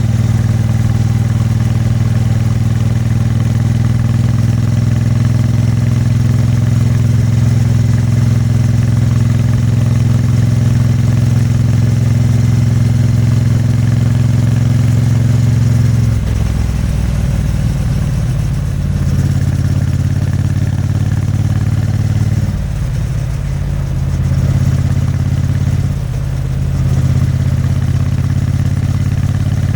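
Triumph Bonneville T100's vertical-twin engine and exhaust running at steady revs, then just past halfway the note drops lower and wavers, with a few brief dips as the throttle is eased and worked.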